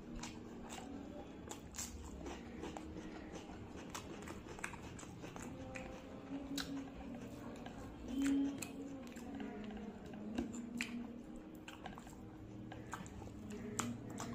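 Close-up eating sounds: wet chewing, mouth clicks and lip smacks, with fingers squishing and mixing rice and fish curry on a plate. A brief low hum comes a little past halfway.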